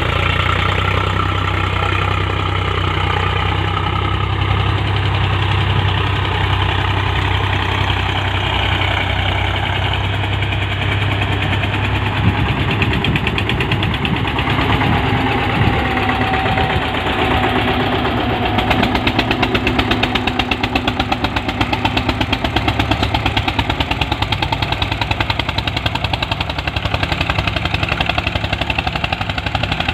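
Eicher 241 tractor's diesel engine running continuously, steady at first, then from about two-thirds of the way through a fast, even pulsing of the exhaust becomes prominent.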